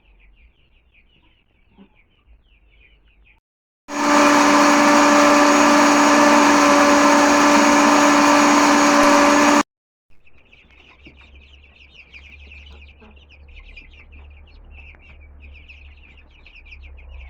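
Electric grain crusher running for about six seconds, grinding grain: a loud steady motor hum with a whine that starts and stops abruptly. Before and after it, chicks peep rapidly.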